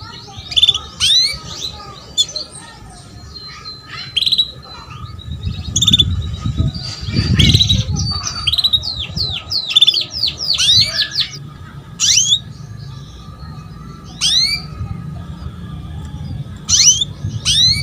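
Female canary calling: short, sharp chirps, some single and some in quick runs, the calling a hen in breeding condition uses to draw a male.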